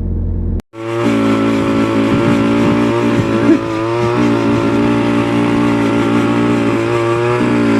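A motor vehicle engine running at a steady speed, its pitch holding nearly constant, starting suddenly after a short gap.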